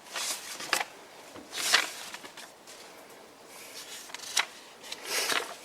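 Paper pages of a visitors' book being leafed through: several short rustles of paper, with a couple of sharp ticks between them.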